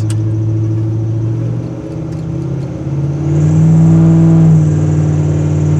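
Exhaust rumble of a custom 1983 Chevy C10 pickup heard from inside the cab. It runs steadily, then about three seconds in rises in pitch and gets louder as the truck accelerates, and holds there.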